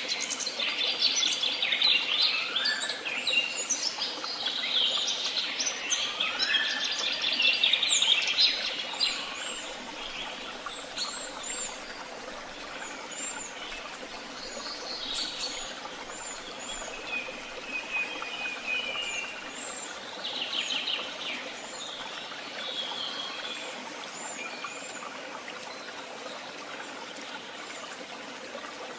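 Several woodland songbirds singing and calling together, with rapid trills, chirps and short rising whistles. The song is busiest and loudest for the first nine seconds or so, then thins to scattered calls over a steady background hiss.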